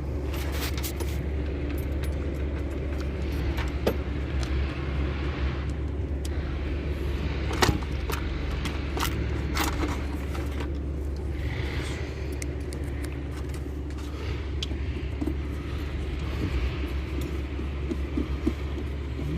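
Hand tools and bolts clinking and clicking now and then as panels are unbolted on a truck, over a steady low rumble.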